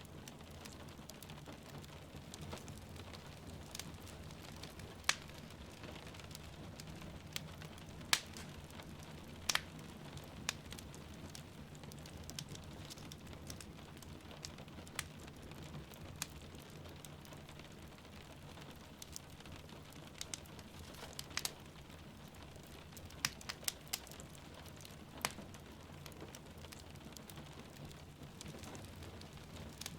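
Wood fire crackling, with sharp pops at irregular intervals over a steady hiss of rain and a low rumble.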